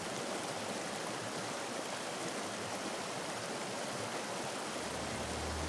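Steady rushing water of a mountain stream. A low steady hum fades in near the end.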